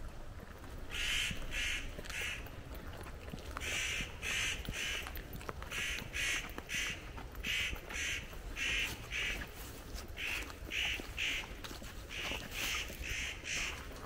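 A bird giving short, harsh calls in runs of three or four, about two calls a second, with a run every two seconds or so.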